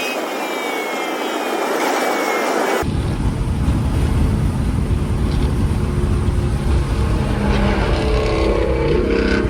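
Straight-piped Chevrolet Camaro ZL1's supercharged V8 exhaust, loud. For the first three seconds the sound is thin with a falling whine. Then comes a deep, heavy exhaust rumble whose pitch rises near the end as the car accelerates.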